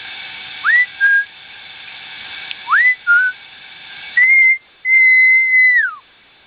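A bird whistling clear notes: twice a rising slur followed by a short lower note, then a short high note and a long level whistle that drops away at its end.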